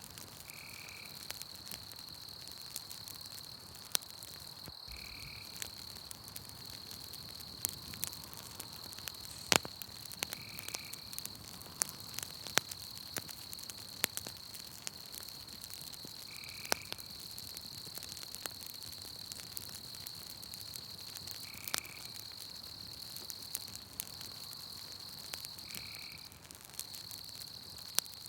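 Campfire crackling, with irregular sharp snaps and pops, over a steady high insect trill. A short high call repeats about every five seconds.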